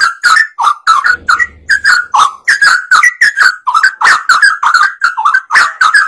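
Sooty-headed bulbul (trucukan) singing energetically: a fast, unbroken string of short whistled notes, about four a second, played as a lure to attract other birds.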